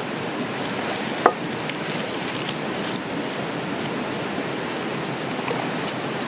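Wood campfire crackling, with one sharp pop about a second in, over a steady rushing noise.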